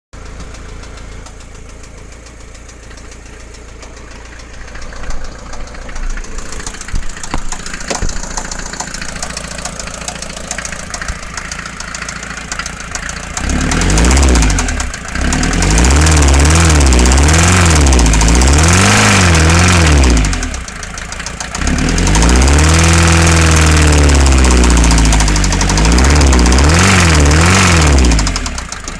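Mercedes Vito 108D's 2.3-litre non-turbo diesel engine idling with a knock. From about halfway it is revved up and down again and again, the pitch rising and falling in waves, with a short drop back to idle about two-thirds of the way in. The knock is still there after a new head gasket and piston rings, and the owner does not know its cause.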